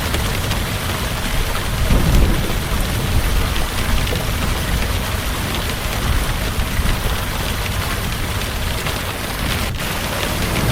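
Heavy rain falling steadily, with a low rumble of thunder swelling about two seconds in.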